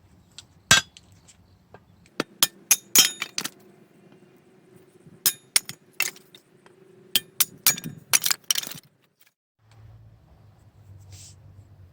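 Sharp knocks and metallic clinks of firewood being struck down onto a homemade reverse axe, an axe head fixed edge-up, to split it. They come in quick irregular clusters and stop about nine seconds in.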